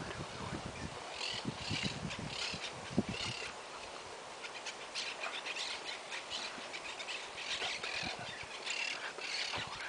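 Birds chirping, many short high calls throughout, with a run of soft low thumps in the first three seconds.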